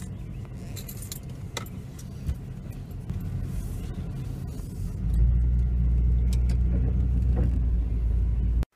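Car on the move, heard as a low, steady rumble of engine and road with a few small clicks and rattles. The rumble gets much louder about five seconds in, then cuts off suddenly.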